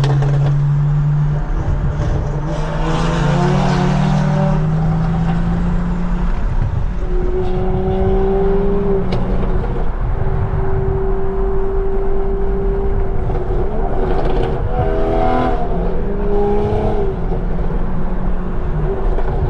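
Toyota A90 Supra's tuned B58 3.0-litre turbo inline-six with a catless downpipe and straight-piped exhaust, pulling hard through the gears. Its pitch climbs and drops at each shift, holds steady for a few seconds in the middle, then climbs again near the end.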